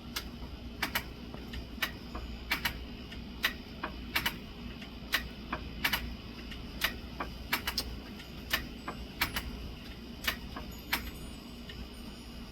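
Irregular sharp clicks or clacks, about one or two a second, over a steady low background.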